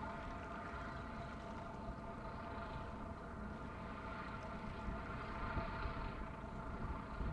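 Ship's diesel engines running steadily with a droning hum, over a low rumble of wind on the microphone.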